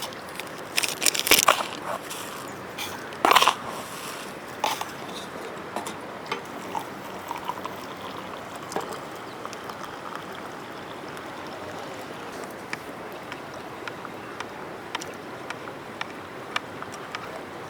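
Crunching and snapping sounds, loudest in a cluster between about one and three and a half seconds in, then scattered light ticks over a steady background hiss.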